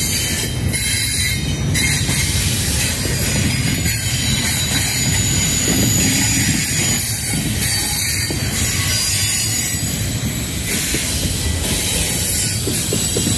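Container cars of a Canadian National intermodal freight train rolling past: a steady low rumble of wheels on rail, with a thin high-pitched squeal from the wheels.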